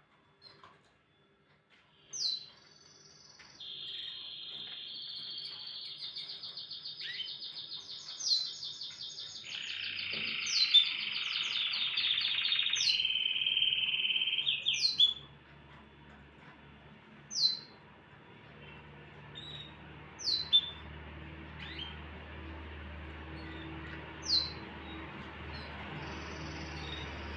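Domestic canary singing: a long run of rapid rolling trills lasting about ten seconds, broken by sharp falling chirps, then single sharp chirps a few seconds apart.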